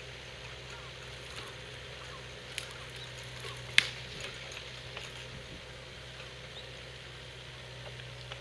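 An engine idling with a steady low hum, with a sharp knock a little under four seconds in and a lighter click a second earlier.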